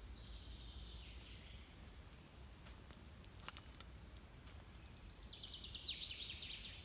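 Songbird singing: a short high phrase falling in pitch at the start, then a quick trill of notes stepping down in pitch near the end, over faint steady background noise. A few sharp clicks sound around the middle.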